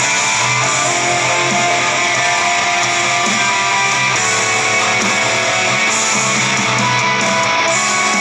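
Guitar music with strumming, played back through a Kinter MA-120 amplifier and Panasonic speakers, with the amplifier's bass control turned up to maximum.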